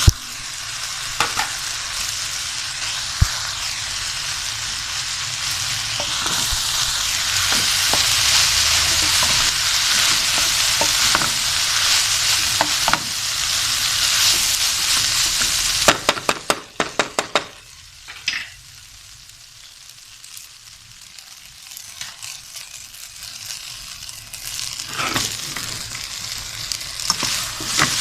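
Boiled noodles and vegetables sizzling in hot oil as they are stir-fried, with the spatula clicking and scraping against the pan. Past the middle the sizzle drops away for several seconds, then comes back near the end.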